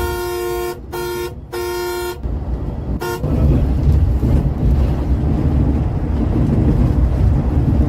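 A vehicle horn honks three times in quick succession (long, short, long), then gives one short toot about three seconds in, over the steady low rumble of a bus engine and road noise, which grows louder after the last toot.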